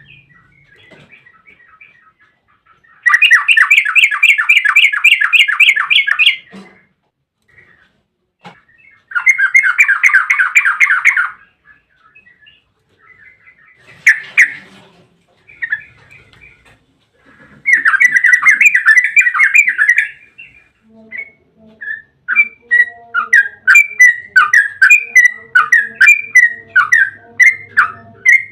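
Yellow-vented bulbul (trucukan) singing its long rapid trill: three loud bursts of quickly repeated notes, each two to three seconds long, then a longer run of fast, uneven chattering notes near the end.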